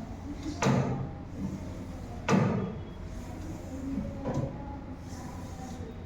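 Three short, sharp knocks of hard objects being handled and set down, the loudest a little past two seconds in and a weaker one near the end.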